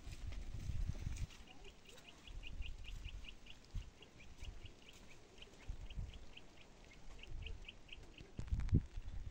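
A bird calling in runs of short, high chirps, about five a second, with brief pauses between runs. Low thuds of footsteps on dirt and stone steps come at the start and again near the end.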